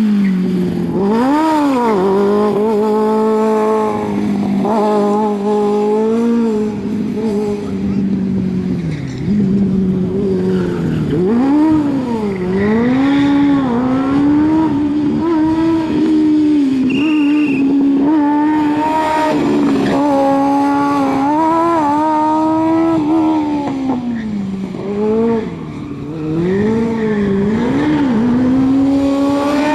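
Kawasaki Ninja motorcycle engine in a Smart Fortwo revving hard on a rally sprint stage. Its pitch rises and falls repeatedly, every second or two, as the driver accelerates, shifts and lifts through the course.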